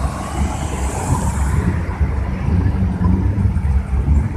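A rally car driving past with a low rumble, its hiss strongest over the first second and a half and then dying away.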